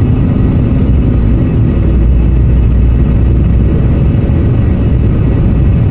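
Airliner cabin noise during landing: the engines and rushing air make a loud, steady, low rumble.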